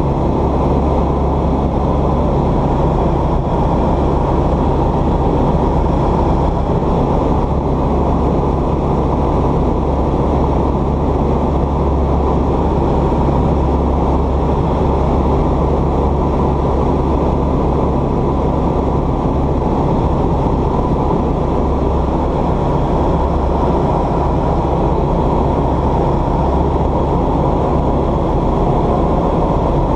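A light aircraft's piston engine and propeller running steadily, heard from inside the cabin as a constant, unchanging low engine noise.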